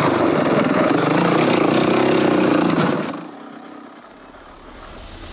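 Yamaha WR450F dirt bike's four-stroke single-cylinder engine running under way, heard from the rider's helmet camera. It fades out about three seconds in, leaving a quieter hum as music begins to rise near the end.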